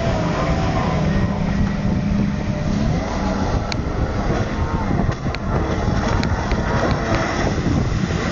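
Kawasaki 1200 jet ski engine running on the water, its pitch steady for the first few seconds and then rising and falling, over a steady rush of wind and water.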